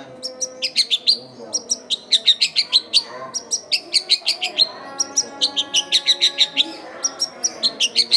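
Long-tailed shrike (cendet) singing vigorously: runs of rapid, sharp, high chattering notes, several a second, broken by short pauses.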